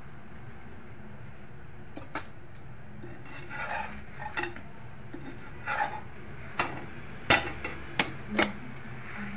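Flat metal spatula scraping and tapping against an iron tava as a jowar bhakri is slid loose and turned: a string of short scrapes and sharp clicks, the loudest about seven seconds in, over a steady low hum.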